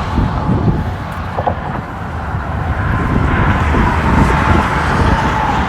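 Road traffic going by, a steady vehicle rumble with a faint tone that sinks slowly, over wind buffeting the microphone.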